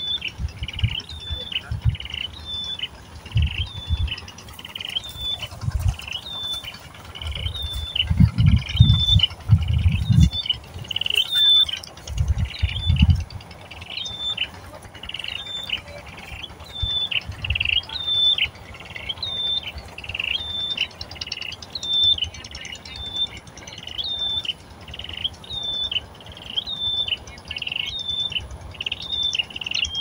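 A bird chirping steadily: one short high call, repeated evenly a little more than once a second. Low thumps and rumbling come in bursts between about eight and thirteen seconds in.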